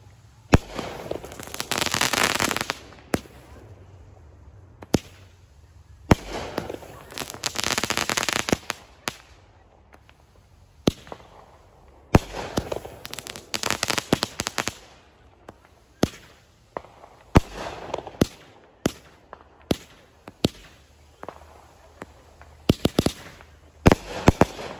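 A Crazy Like a Fox multi-shot aerial firework firing: sharp bangs of launches and bursts, grouped into about five volleys, each followed by a couple of seconds of crackling.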